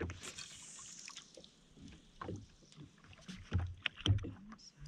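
Water slapping and knocking against the hull of a drifting Sea-Doo FishPro jetski, with two louder low thumps near the end.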